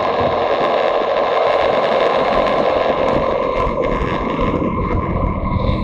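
A motorcycle running on the road, heard from on board: a steady rush of wind and road noise over the engine. Near the end the wind rush eases and the engine's low rumble comes forward.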